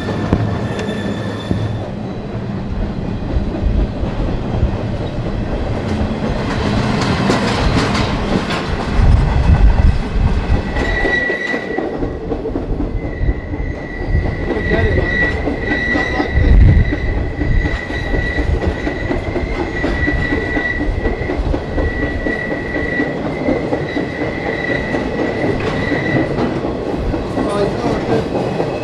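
Freight train rolling, heard from inside its caboose: a steady rumble and clatter of wheels on rail. A high, steady wheel squeal sets in about eleven seconds in and lasts about fifteen seconds. Two heavy thumps come, one about nine seconds in and one about sixteen seconds in.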